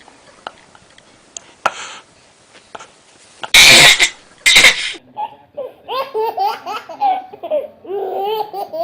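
Two sudden loud bursts of noise about three and a half seconds in, then a baby laughing in a string of short, high-pitched bursts through the second half.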